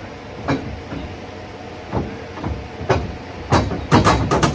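Metal clanks and knocks as an engine on a hoist is worked down into a car's engine bay, snagging on the exhaust header: a few single knocks, then a quick run of loud clatters near the end, over a steady shop hum.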